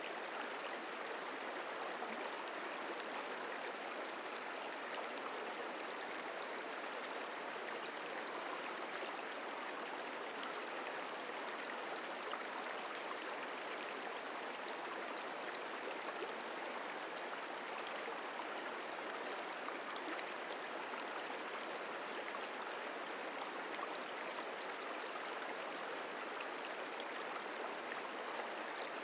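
Merced River flowing: a steady, even rush of moving water.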